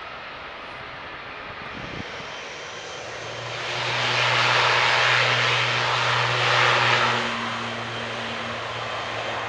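Jet airliner engines during a takeoff climb. The noise swells to a peak for a few seconds in the middle, then eases off, with a steady low hum underneath.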